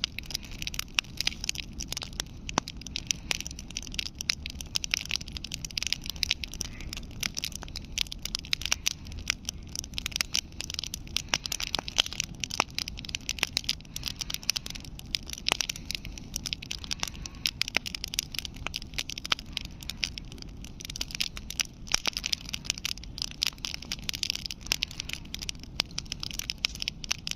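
Campfire burning, with frequent sharp crackles and pops of burning wood over a steady hiss and a low rumble.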